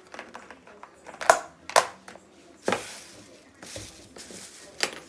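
A few sharp knocks and clatters, with rustling and handling noise in between.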